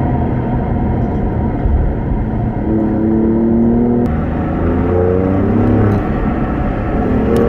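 Alfa Romeo Giulia Quadrifoglio's twin-turbo V6 running with a low, steady note, then revving up twice, the pitch climbing about three seconds in and again about four and a half seconds in. A sharp click comes between the two rises.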